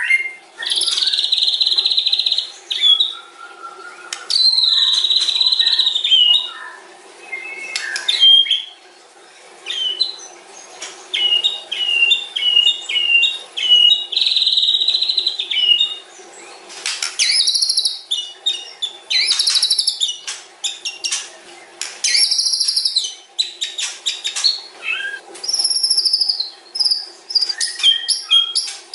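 White-rumped shama (murai batu) singing a long, varied song: clear whistles held for about a second, runs of short repeated notes, and bursts of fast rattling notes, over a faint steady background hiss.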